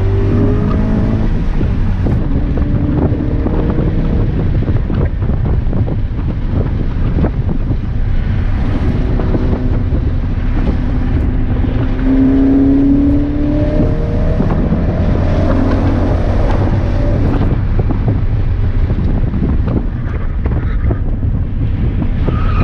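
A car's engine being driven hard on a racing circuit, its pitch climbing under acceleration and falling off again, over a constant rumble of road and wind noise.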